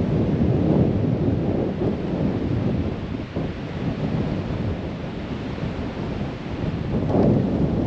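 Strong gusty wind buffeting the microphone: a heavy low rumble that eases off through the middle and swells again near the end.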